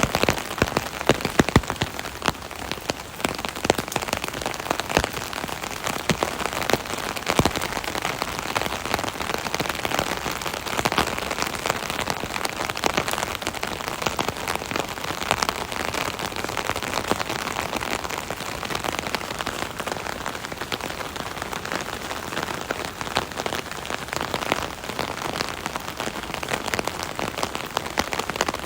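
Steady rain falling on an umbrella, a dense patter of drops striking the canopy, with sharper louder hits scattered through it, most of them in the first few seconds.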